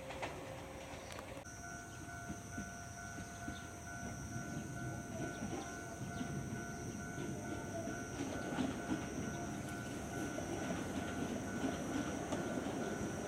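A railway level-crossing alarm sounding a steady tone while an electric train approaches, the rumble of its wheels on the rails growing louder toward the end.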